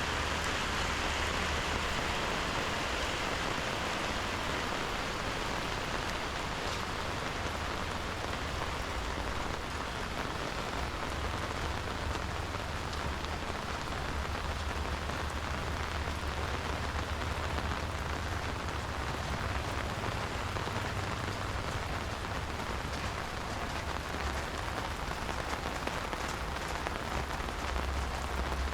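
Steady rain falling and pattering, with a low rumble underneath.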